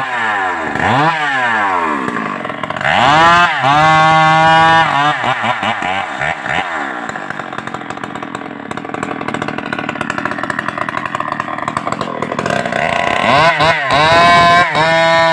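Stihl MS381 two-stroke chainsaw revved in quick bursts, then held at high revs. Through the middle it runs rougher and lower in pitch, as under load while cutting wood, then it revs up and down again near the end.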